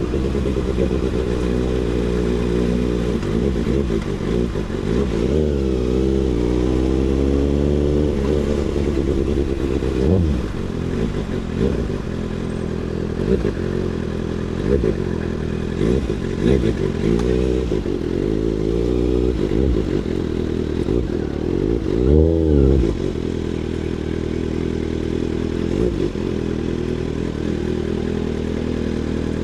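Kawasaki ZX6R inline-four engine running through an SC Project CRT aftermarket exhaust, its revs rising and falling, with sharp throttle blips about a third of the way in and again near three quarters of the way through.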